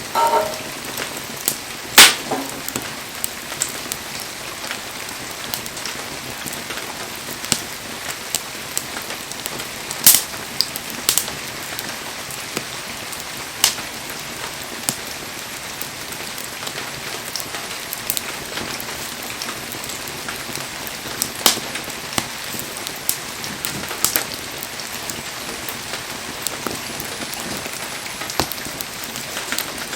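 Wood fire crackling: a steady hiss with irregular sharp pops, the loudest about two seconds in and again about ten seconds in.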